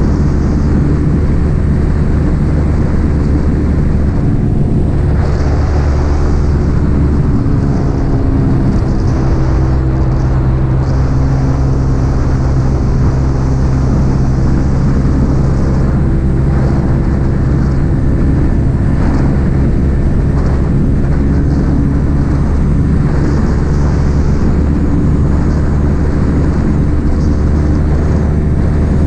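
Yamaha XSR 155's single-cylinder four-stroke engine running through an aftermarket M4 exhaust while being ridden. The engine note shifts a few seconds in, then holds steady at cruising speed.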